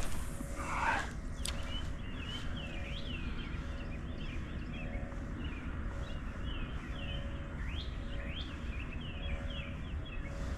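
Many short, high, swooping chirps, several a second and in no even rhythm, from birds calling outdoors, over a steady low rumble. About half a second in, a brief louder rising sound stands out.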